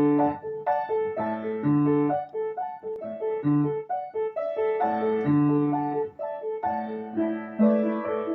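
Piano accompaniment playing with no voice over it: bass notes under a moving melody of chords and notes.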